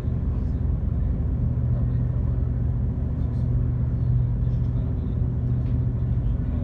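Passenger ferry's engines running at a steady cruise, a constant low drone with an even hum, heard from on board.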